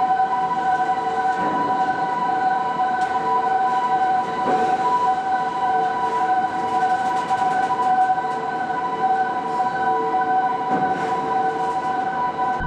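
Machinery running with a steady whine made of several held tones, over a noisy hum, with a few brief knocks.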